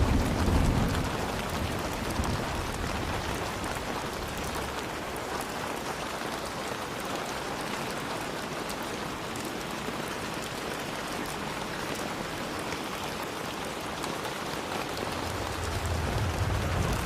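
Steady rain falling, an even hiss. A low rumble of thunder dies away in the first second or two, and another rumble builds near the end.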